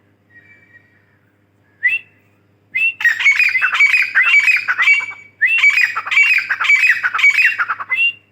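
Teetar (francolin) calling: a single note about two seconds in, then two loud runs of rapidly repeated calls, each lasting about two and a half seconds, the second starting about five and a half seconds in.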